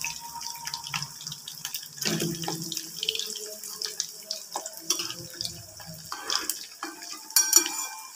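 Chicken pieces frying in moderately hot oil in a kadai: a steady sizzle with many small crackles and pops. A short, sharp clatter near the end is the loudest moment.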